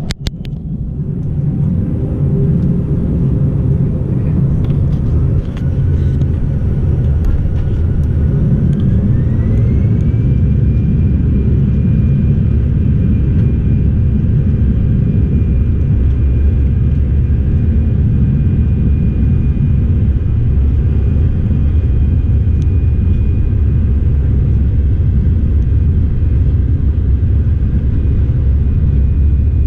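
Airbus A319's CFM56 jet engines spooling up to takeoff thrust. A whine rises from about five seconds in and levels off around ten seconds, over a heavy, steady rumble of the takeoff roll.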